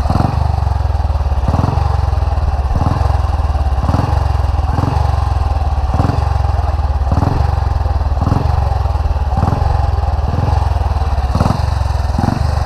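Motorcycle engine running steadily: a constant low rumble with uneven low thuds a little more than once a second.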